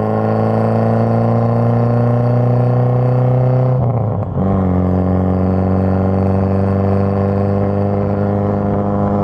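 Toyota Kijang's engine running through its newly fitted Alpino racing muffler, the revs climbing slowly. About four seconds in the pitch drops back, and the engine then holds a steady speed.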